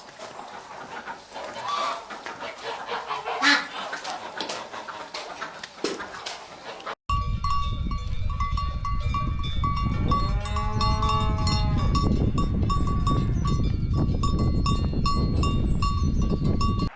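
Farm animals calling: a run of short, irregular calls, then, after an abrupt cut, a single drawn-out call lasting about two seconds over a loud low rumble and a high note that repeats at a steady pace.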